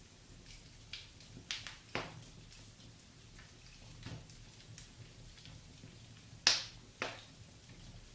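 Wood fire crackling: scattered sharp pops and snaps over a soft hiss, with the two loudest pops close together about six and a half seconds in.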